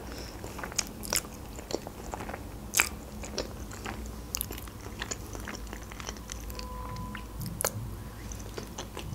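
A person chewing a mouthful of spaghetti in a creamy sauce, with wet mouth clicks and smacks scattered throughout.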